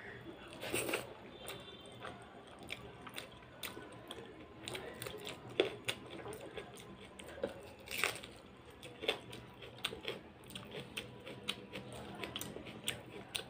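Close-up chewing and wet mouth sounds of a person eating a big handful of rice with dal and mashed potato by hand: irregular smacks and clicks. Near the end, fingers squish and mix rice on the plate.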